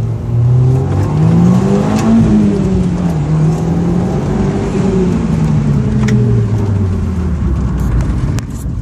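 Audi TT 225 Quattro's turbocharged 1.8 L four-cylinder engine revving under acceleration, rising in pitch to about two seconds in, dipping, rising again, then falling away. A faint high whistle rises and falls over it: the whistle above 15 psi of boost whose cause the owner cannot find.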